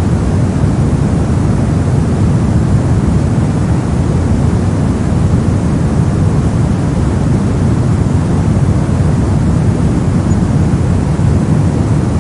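Steady, loud generated noise sold as white noise, unchanging throughout. Its energy is weighted heavily toward the low end, so it sounds like a deep, even rush rather than a bright hiss.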